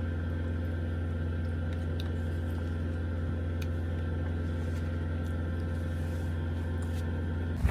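Steady low mechanical hum inside a truck cab, even in level throughout with a few faint ticks.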